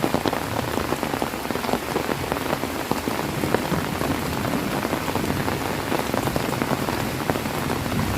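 Heavy rain falling steadily, with many individual drops pattering sharply on a surface.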